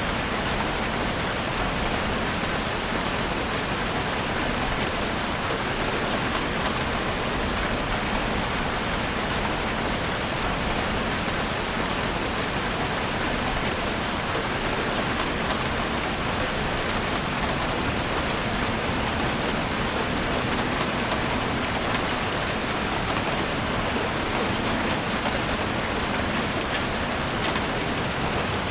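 Heavy rain drumming steadily on a roof, a dense even patter of drops with no let-up.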